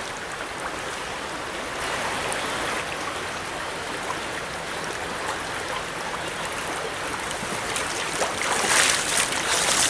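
Steady rush of a river's flowing water, an even hiss that grows a little louder and brighter near the end.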